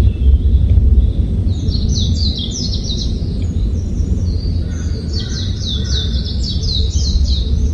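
Songbird singing two quick runs of high, falling chirps, one about a second and a half in and one about five seconds in, over a steady low rumble.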